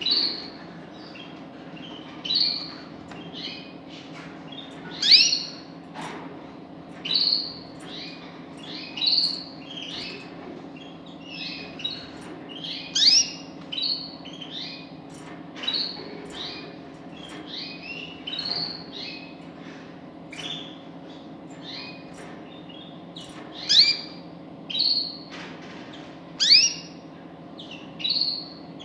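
A small cage songbird giving short, sharp calls, one every second or two, over a steady low hum.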